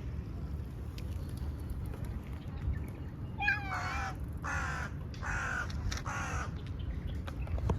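A crow cawing four times in quick succession, harsh calls about half a second apart, over a steady low background rumble.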